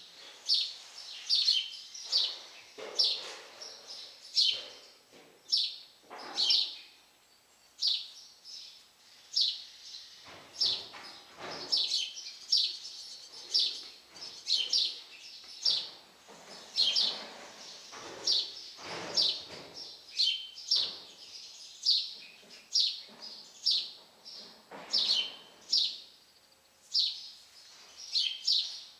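A bird chirping over and over, short sharp chirps one or two a second without a break.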